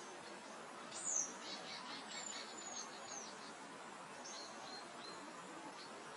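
Songbirds calling over a steady background hiss of soft wind. The loudest is a sharp, high, falling note about a second in, followed by a quick run of chirps and slurred whistles, and a few more short whistles a couple of seconds later.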